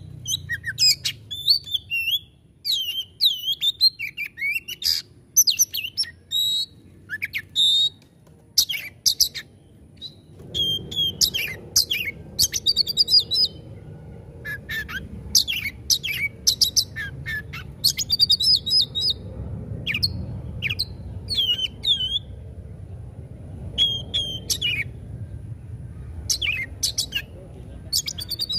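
Oriental magpie-robin (kacer) singing hard in rapid, varied bursts of high whistles, chirps and sharp downward-sweeping notes, the harsh 'shooting' (nembak) song of a bird in full song. A low steady rumble joins about a third of the way in.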